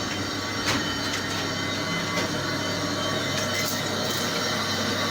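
A workshop machine tool running steadily, a constant hum with a few short clicks and taps.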